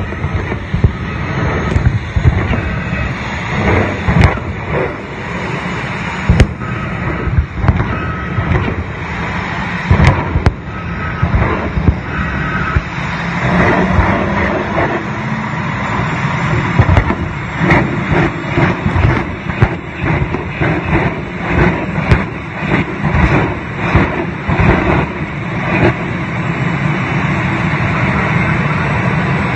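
Jet engine running loud and steady, broken by a long string of sharp pops and bangs that come thickest in the second half.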